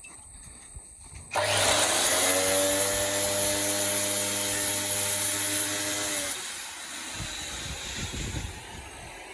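Angle grinder switched on and run on the plough's steel for about five seconds, starting suddenly and then cutting off, with its motor whine steady under the grinding noise.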